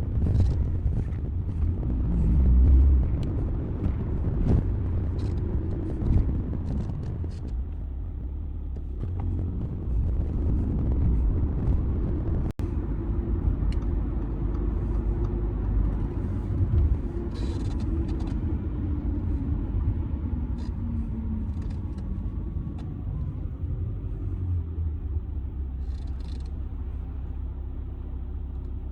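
2007 Audi A6 C6 2.0 TDI four-cylinder turbodiesel car being driven, with a steady low engine and road rumble. Through the middle, a tone slowly falls in pitch.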